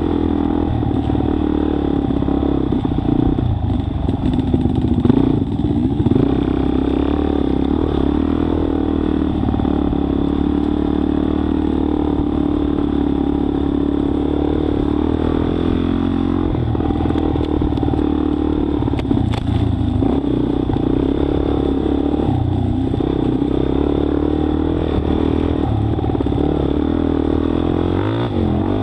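Motorcycle engine running at low, fairly steady revs, the pitch dipping and picking up again a few times as the throttle is eased and opened.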